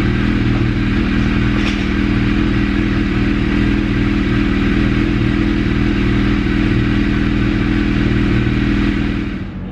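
Engine running steadily at one constant speed, without revving, and loud. The sound fades out near the end.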